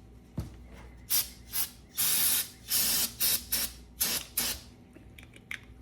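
A spray nozzle hissing in about eight short bursts, one a little longer than the rest, after a single thump.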